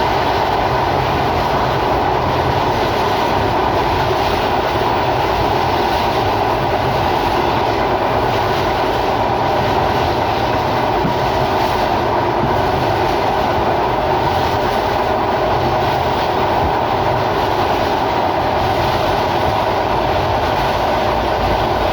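Sundarban Express passenger train running steadily along the track, a continuous loud rumble of wheels on rails.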